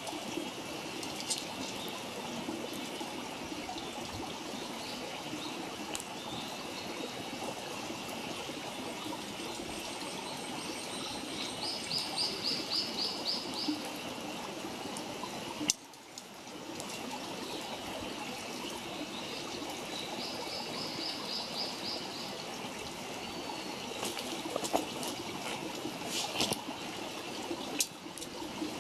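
Wood campfire crackling and hissing steadily, with a few sharp pops. A bird trills twice, a quick run of repeated high notes each time, in the middle stretch.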